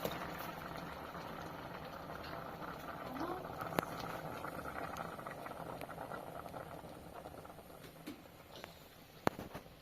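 Steady watery hiss that slowly fades away, with a few sharp clicks, one about four seconds in and one near the end.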